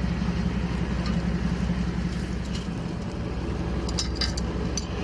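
Tractor engine idling steadily with a low hum, with a few light clicks about four seconds in.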